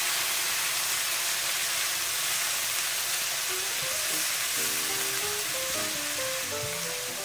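Onion, garlic and ginger masala with turmeric sizzling in hot oil in a non-stick wok, stirred and spread with a silicone spatula: a steady sizzling hiss.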